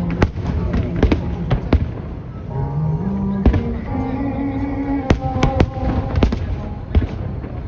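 Fireworks bursting in a string of sharp, irregular bangs, about a dozen, over the display's accompanying music.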